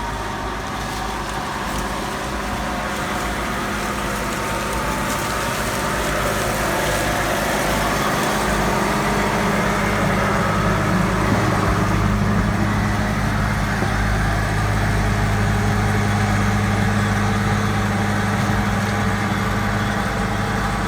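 Gleaner combine's diesel engine running steadily, heard from inside the cab as a low hum that grows somewhat louder partway through.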